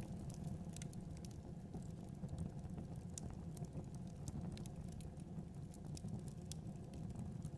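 Wood fire in a fireplace crackling, with irregular sharp pops and ticks over a steady low rumble of the flames.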